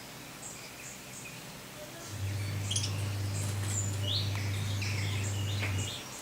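Lovebirds chirping: short, high calls that come thicker and overlap in the second half. A low steady hum comes in about two seconds in and stops shortly before the end.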